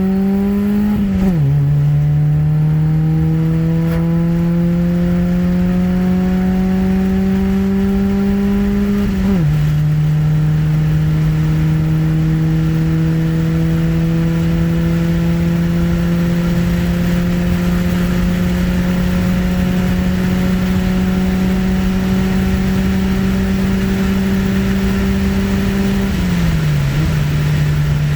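CB7 Honda Accord's swapped JDM F23A four-cylinder engine pulling through the gears. The engine pitch climbs, drops sharply at a gear change about a second in, climbs again and drops at the next shift around nine seconds in, then rises slowly for a long stretch before falling near the end.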